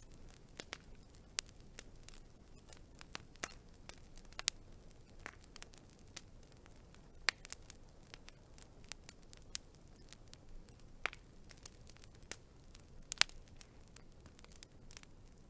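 Wood fire crackling: irregular sharp pops and snaps over a soft hiss, with a few louder pops about 7, 11 and 13 seconds in.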